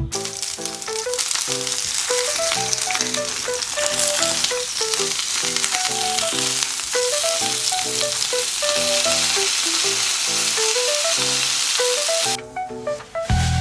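Skewered chicken and leek sizzling in a hot oiled frying pan, a steady dense hiss that stops abruptly near the end, over background music with a plucked melody.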